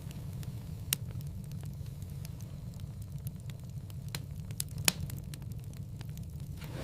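Wood fire burning in a fireplace: a steady low rumble of flames with scattered sharp crackles and pops, the loudest about five seconds in, and a soft hiss rising near the end.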